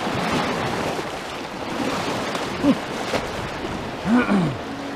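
Whitewater of an Arkansas River rapid rushing steadily around a raft, with two short voice calls, about two and a half and four seconds in.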